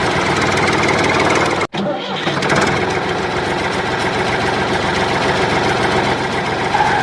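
An engine running steadily, with a rapid even chug; it cuts out for an instant just under two seconds in and then carries on.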